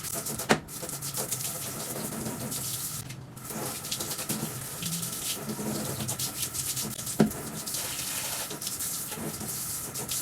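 Tap water running in a sink while the table fan's blades and guards are rinsed of soap, with two sharp knocks, one about half a second in and one about seven seconds in.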